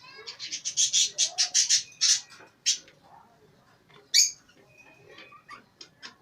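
Caged pet birds chirping in a fast run of loud, high calls over the first three seconds, then one sharp squawk about four seconds in, with fainter chirps from other birds throughout.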